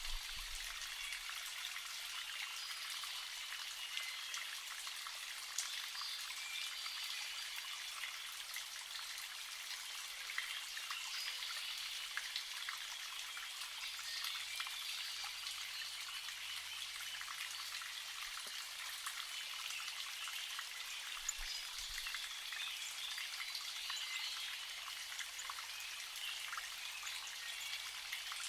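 Spring water trickling steadily, with many small drips and splashes.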